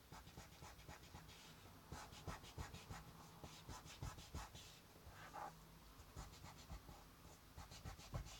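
Faint, repeated scratchy rubbing strokes as a cut piece of card or paper is rubbed down onto a magnetic sheet to stick it in place.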